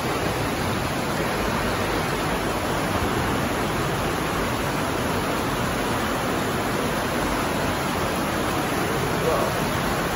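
Fast-flowing river water rushing over rocks, a steady roar that stays the same throughout.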